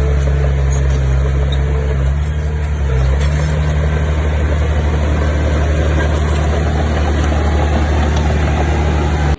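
Heavy construction machine's diesel engine running steadily, its low drone shifting briefly in pitch about two to three seconds in.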